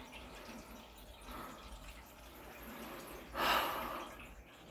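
Water dripping and trickling from a valve on a boiler's heating pipework while air is bled out, with a sudden louder spurt about three and a half seconds in that fades over a second.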